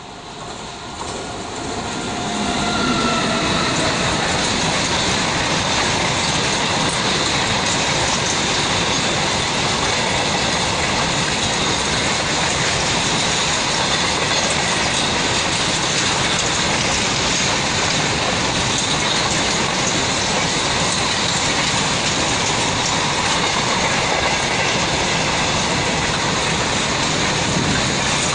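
Goods train passing close by: the electric locomotive's approach grows louder over the first three seconds, then the long, steady rumble and clatter of covered freight wagons rolling over the rails.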